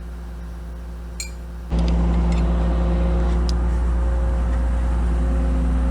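Kobelco SK250 LC excavator's diesel engine idling steadily, with a light click about a second in. Just under two seconds in the engine sound jumps sharply louder and stays there.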